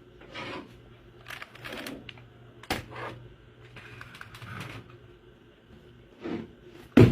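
Keys of a HUSKY Blizzard 60% mechanical keyboard clacking in irregular strokes, with a loud knock near the end.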